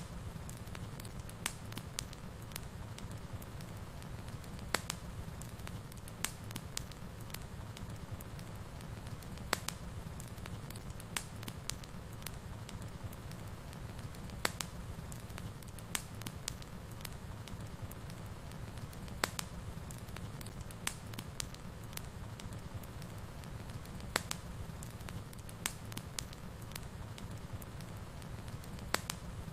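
Fireplace fire crackling: irregular sharp pops every second or two over a steady low rumble of the flames.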